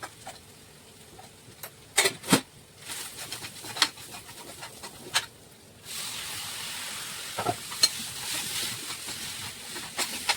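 Utensils clink and knock against a pan a few times, then about six seconds in a steady sizzle of frying starts suddenly and carries on.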